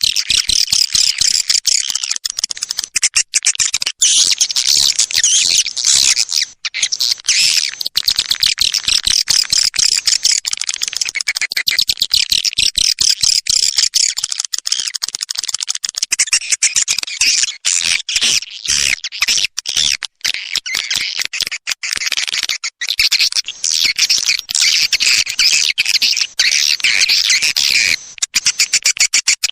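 Swiftlet lure call played back: a dense, rapid, high chirping twitter of swiftlets that goes on without a break. It is the calling sound played in swiftlet houses to draw the birds in to roost and nest.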